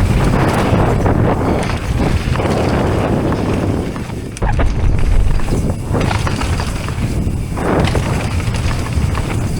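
Mountain bike riding fast down a trail, with wind rushing over the camera microphone and tyre and trail rattle. A sudden jolt about four and a half seconds in.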